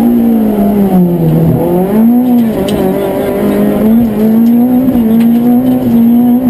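Citroën Saxo rally car's engine heard from inside the cabin, running hard at high revs under racing load. Its pitch dips about a second in and again just after two seconds, then climbs back and holds high.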